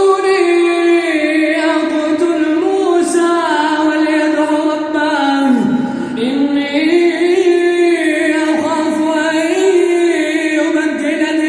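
A man's voice reciting the Quran in melodic tajweed style, drawing out long held notes with ornamented turns and bends in pitch.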